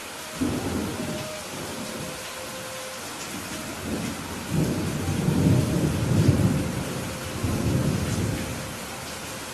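Steady rain hissing, with thunder rumbling over it. A low rumble starts suddenly about half a second in and dies away, then a longer, louder rolling rumble builds through the second half and fades near the end.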